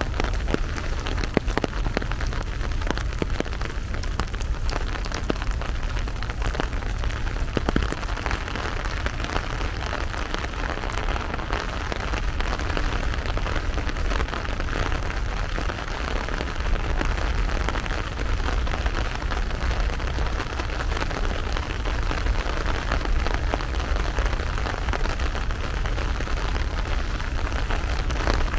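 Steady rainfall, with individual drops ticking sharply over an even hiss and a low rumble underneath.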